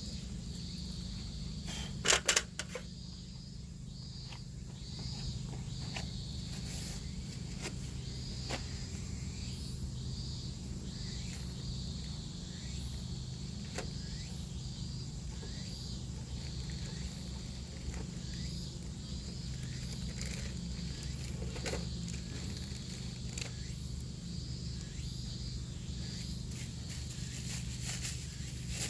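Steady outdoor ambience of insects chirping in a continuous high pulsing trill over a low hum, with scattered sharp clicks and a loud double crack about two seconds in.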